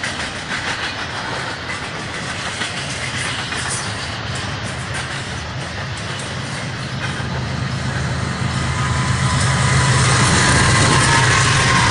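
BNSF double-stack container train rolling past at close range, its wheels clicking over the rails. From about eight seconds in, a mid-train diesel locomotive (a distributed-power unit) passes, and its engine hum swells to the loudest point near the end.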